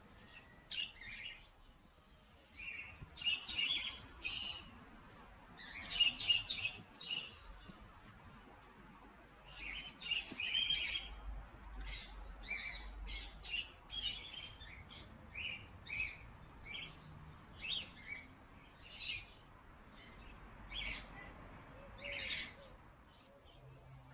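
Small birds chirping and tweeting: many short, high calls repeated throughout, coming thicker about ten seconds in.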